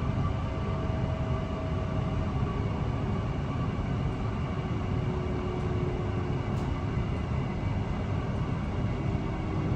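Steady running noise heard from inside a carriage of a Mariyung (D set) electric train in motion: a continuous deep rumble with a few faint steady whining tones over it.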